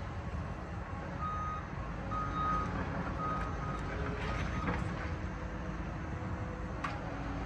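Reverse alarm of heavy demolition equipment beeping three times, about a second apart, over the steady low rumble of its diesel engine.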